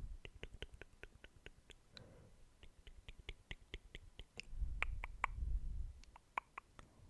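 Close-miked ASMR mouth sounds: a run of soft, wet clicks and smacks, about three or four a second. A low rumble on the microphone joins them about two-thirds of the way through.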